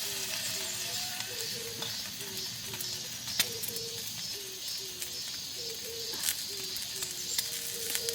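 Forest ambience with a steady high hiss. A soft, low two-note call, a higher note dropping to a lower one, repeats roughly once a second. A few sharp clicks stand out.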